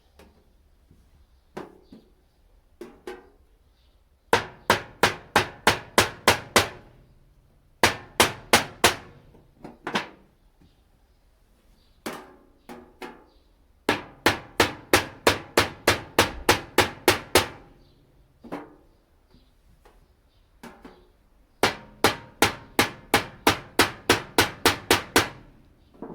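Hammer striking a flathead screwdriver to punch holes through the thin sheet metal of a rice-cracker tin. The strikes come in quick runs of about four a second, with short pauses and a few single taps between the runs.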